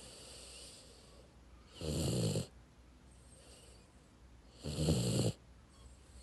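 A dog snoring in its sleep: two snores about three seconds apart, each lasting under a second.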